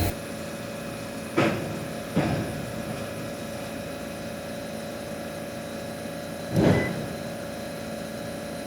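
Steady mechanical hum with a faint held tone, broken three times by short handling sounds, about a second and a half in, two seconds in, and near seven seconds.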